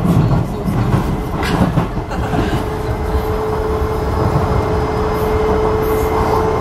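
Docklands Light Railway train running on the track, heard from on board: a steady rumble of wheels on rail with a few knocks in the first two seconds. A steady whine comes in about two seconds in and holds.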